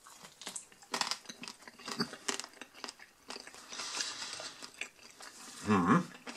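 Chewing and crunching on a breaded, fried McDonald's chicken wing, close up. About four seconds in there is a denser crackling as the wing is torn apart by hand, and a brief hum comes near the end.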